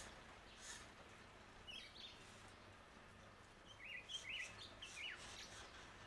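Small garden birds chirping: a couple of quick chirps about two seconds in and a run of chirps from about four to five seconds, over the faint steady flow of a bird bath fountain, with a brief splash-like hiss near the start.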